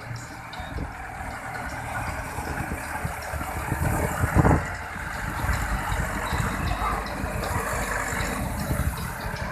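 Tractor engine running with a rough, knocking rumble, with one louder burst about four and a half seconds in.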